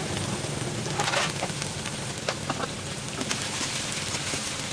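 Ginger-garlic-chilli paste sizzling steadily in hot oil in a kadhai, with a few short crackles and the scrape of a metal slotted spatula stirring it.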